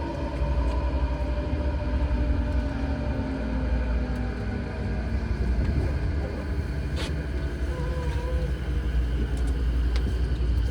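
Interior running sound of an Odakyu 4000-series electric train in a subway tunnel: a steady low rumble, with faint motor tones sinking in pitch over the first few seconds and a couple of sharp clicks later.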